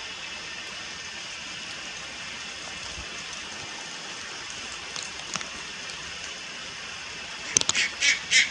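Juvenile Malayan night heron calling: about three short, loud, harsh calls in quick succession near the end, over a steady high hiss.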